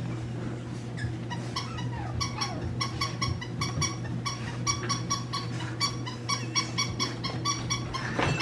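French Bulldog puppy yapping at another puppy in a fast run of short, high yips, about three or four a second, after a brief falling whine about a second in.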